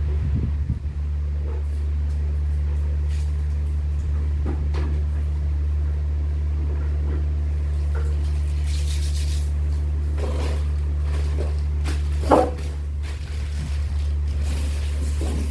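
A steady low hum with scattered light clicks and rustles over it, and one sharper knock about twelve seconds in.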